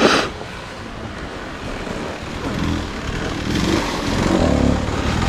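Dirt bike engine running on the trail, its revs rising and falling over wind and riding noise, getting louder in the second half. A short loud burst right at the start.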